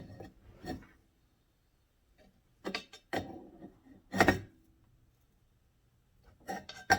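Locking pliers working a fitting on a pressure canner lid: a few short metal clicks and knocks with pauses between, the loudest about four seconds in.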